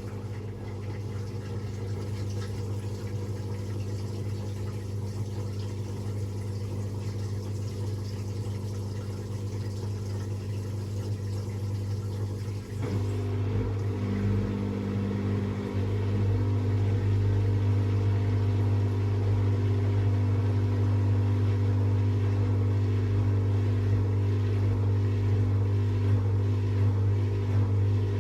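AEG Lavamat Exclusiv 6469AFL washing machine running with a steady motor hum that steps up in speed and loudness about 13 and 16 seconds in, as the drum speeds up.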